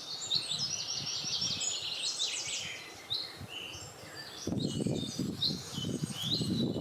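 Several small songbirds chirping and trilling in quick short phrases. About two thirds of the way through, a low, uneven rush of wind comes in beneath the birdsong.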